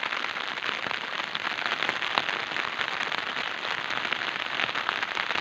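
Steady rain falling: an even hiss of water dotted with many fine drop impacts.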